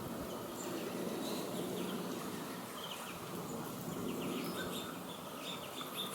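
Faint short bird calls and chirps over a steady background hiss, the calls coming more often near the end.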